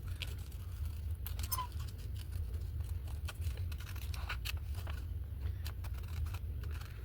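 Paper being handled: light rustles and scattered small clicks and taps, over a steady low hum.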